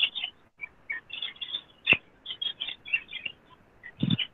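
A small bird chirping repeatedly in quick short calls, heard through a video call's narrow audio, with a sharp click about two seconds in.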